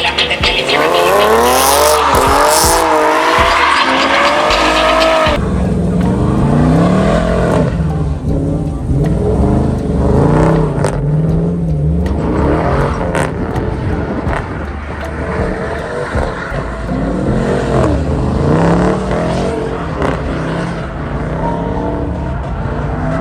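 Car engines revving up and down again and again in rising and falling sweeps. An abrupt change about five seconds in separates this from an opening passage of sweeping high tones.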